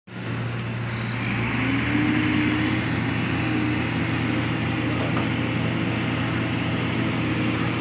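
Heavy diesel engine of truck-loading machinery running steadily, a constant low hum with a steady higher tone over it.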